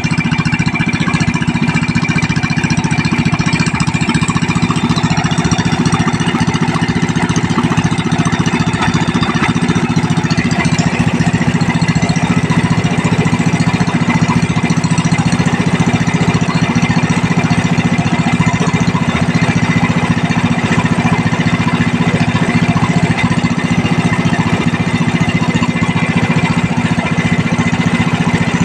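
An 18 hp Proquip gasoline engine running steadily at a constant speed.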